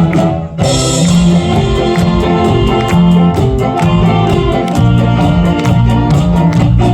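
Saxophone big band playing a medley of Korean trot songs live, with a steady beat. The band breaks briefly about half a second in, then comes back in with a cymbal crash.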